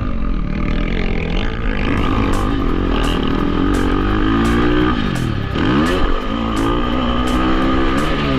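Dirt bike engine running hard and revving; about five seconds in the pitch drops steeply as the throttle closes, then climbs again as it is opened back up.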